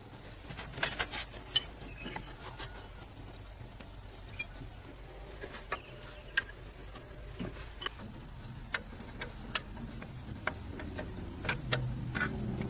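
Irregular light clicks and taps of hand tools on metal parts, with a cluster about a second in. A low hum rises under them near the end.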